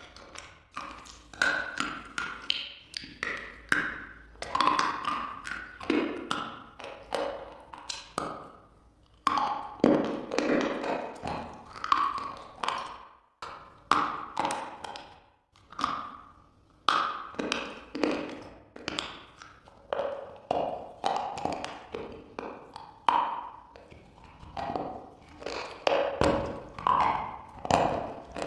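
A person biting and chewing a brittle, powdery white block: a steady run of sharp crunches and snaps, about one or two a second.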